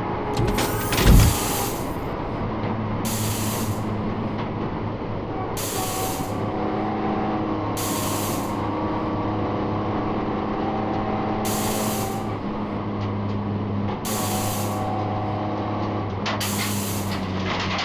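1971 HQ Holden race car's engine running at steady, unchanging revs. Short bursts of hiss come every two to three seconds, and a loud low thump falls about a second in.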